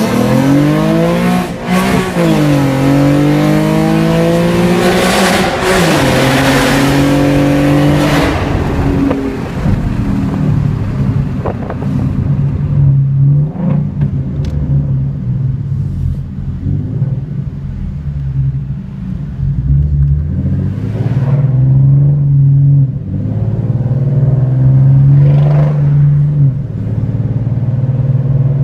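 2014 Ford Mustang's 3.7-litre V6, fitted with long-tube headers, an H-pipe, a muffler delete and a ghost-cam tune, heard from inside the cabin. It accelerates with the pitch climbing, drops at a gear change about two seconds in and again at about six seconds, then settles into a steady drone while cruising.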